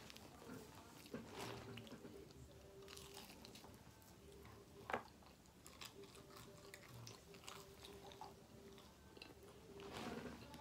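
Quiet chewing and biting of pizza, with scattered small mouth clicks and one sharper click about five seconds in.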